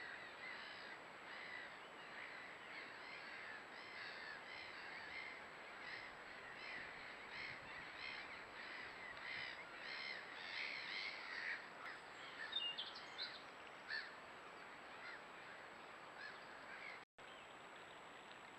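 Birds calling in a long run of repeated notes, two to three a second, with a few sharper chirps after about two-thirds of the way in, heard faintly through a trail camera's microphone over its hiss.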